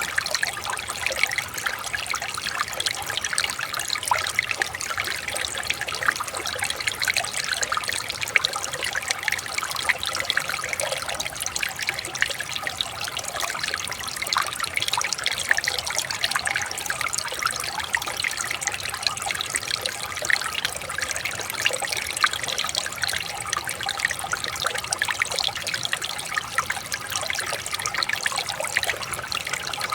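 Shallow stream water trickling and splashing over stones, a steady babble full of small splashes.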